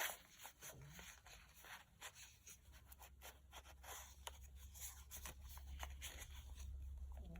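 Faint rustling and scraping of paper cards being slid back into a small paper pocket in a handmade journal, with many light ticks of handling.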